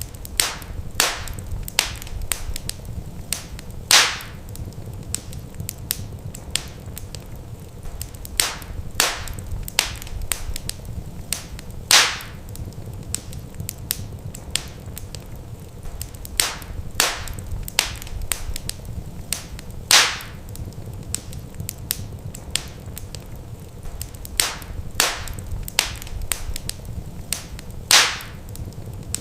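Wood fire in a fireplace crackling, with frequent sharp pops and a louder pop about every eight seconds, over a steady low rumble.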